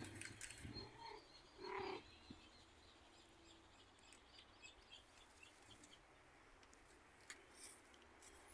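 Faint bird calls and chirps, with one brief louder call about two seconds in.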